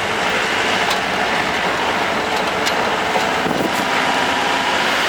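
Jeep running on a rough dirt mountain road: steady engine and road noise, with a few sharp knocks and rattles.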